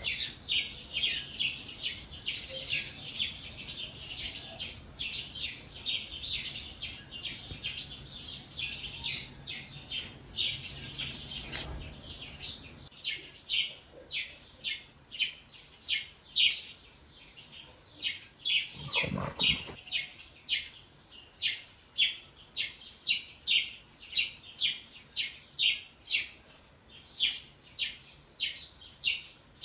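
A bird chirping over and over, short high calls at about two a second, with a brief low rustle about two-thirds of the way through.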